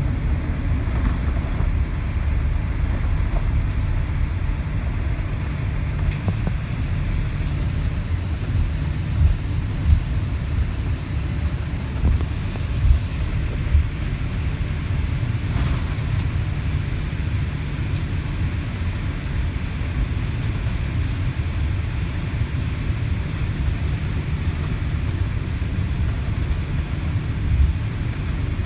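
Cabin noise of a Boeing 787-8 Dreamliner rolling on the ground after landing: a steady low rumble from the engines and wheels, with a few brief bumps from the runway or taxiway surface.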